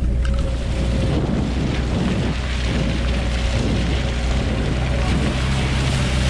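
Lada Niva's engine running steadily as the car drives slowly over a muddy dirt track, with tyre noise and wind on the microphone.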